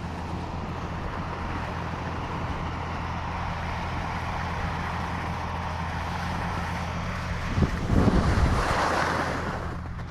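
Wind rushing over the microphone on a ski slope, over a steady low hum, swelling to a louder rush about eight seconds in.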